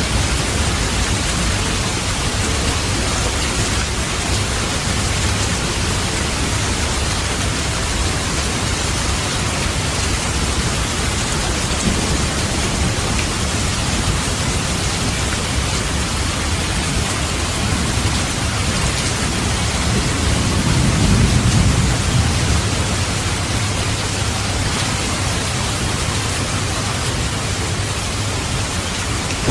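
Steady rain hissing, with a low rumble of thunder swelling and fading about two-thirds of the way through.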